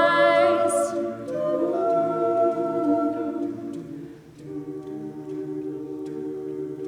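A cappella vocal group singing sustained chords. A solo voice ends a long note with vibrato just under a second in, the chord fades about four seconds in, and a new held chord comes in.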